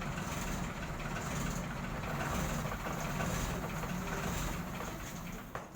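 Large vehicle engine, likely a truck's, idling steadily with a low rumble.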